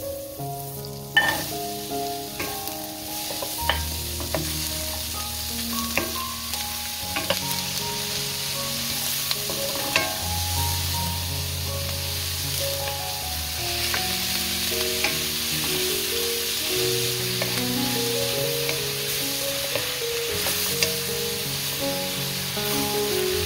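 Butter, diced onion and then diced pork frying in a wok, making a steady sizzle that grows louder about halfway through. A wooden spoon stirs and knocks against the pan several times. Soft background music with held notes plays underneath.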